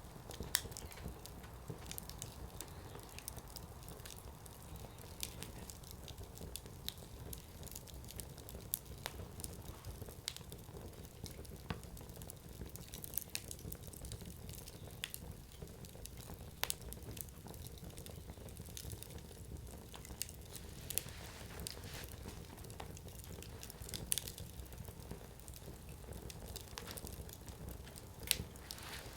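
Wood campfire burning, with sharp crackles and pops of firewood scattered irregularly over a steady low rumble of flame.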